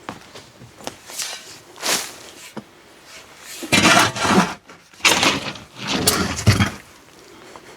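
Soiled wood-chip bedding being scraped and scooped off a chicken coop floor: a few rough scraping strokes, the loudest ones a little before and just after the middle.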